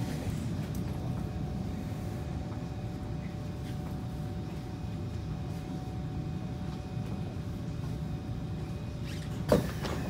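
Kawasaki C151 train cabin interior on the move: a steady low rumble of the wheels on the track with a faint steady motor whine. About nine and a half seconds in there is one sharp loud clunk.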